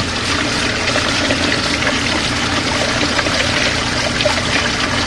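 Portable twin-tub washing machine on its wash cycle, its tub swirling the water in a vortex: a steady rush and slosh of water over a low, even hum.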